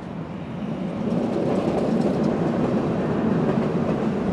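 Passenger train of coaches behind steam locomotive 556.036 rolling past: a steady rumble of wheels on the rails that swells over the first second, with light clicks from the wheels.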